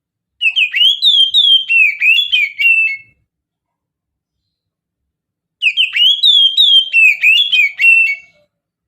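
Oriental magpie-robin singing the 'mountain' (pegunungan) style of song: a rapid run of clear, sweeping whistled notes lasting about three seconds, then after a silent gap the same phrase again.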